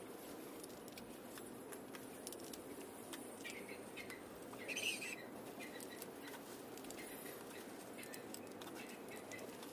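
Faint, steady background noise with scattered light clicks and a few short chirps about four to five seconds in.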